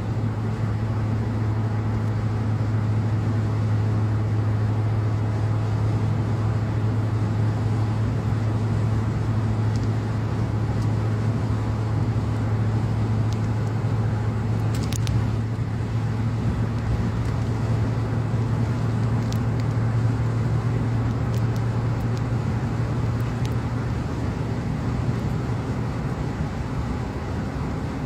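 Steady road noise of a car driving at highway speed, a constant low drone of tyres and engine with no change in pace.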